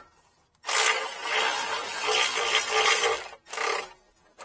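Power tool running for about two and a half seconds, then a short second burst, as it spins a generator spark plug out of its threads after breaking it loose.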